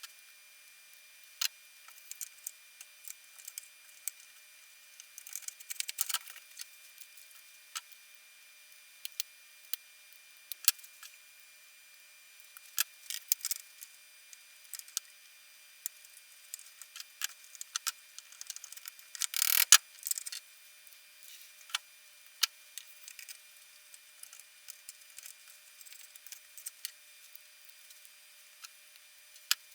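Scattered light clicks and taps of small wooden pump-organ stop parts being handled and set in place, with one louder short scrape about twenty seconds in.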